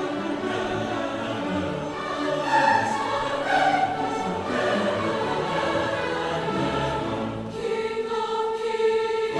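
A choir singing sustained chords in several parts; about three-quarters of the way through, a single steady note is held on under the other voices.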